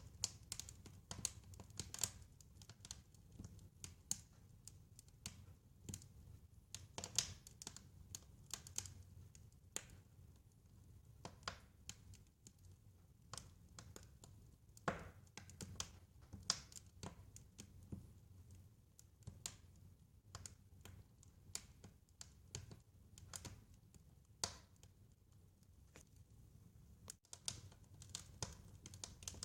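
Wood fire crackling softly: irregular pops and snaps, a few sharper than the rest, over a low steady rumble of the burning fire.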